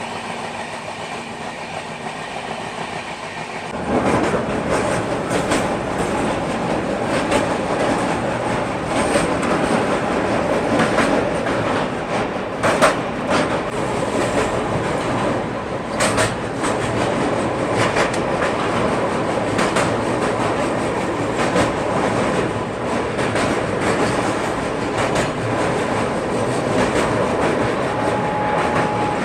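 Passenger train running at speed: a continuous rumble with the wheels clattering irregularly over rail joints. It gets noticeably louder about four seconds in.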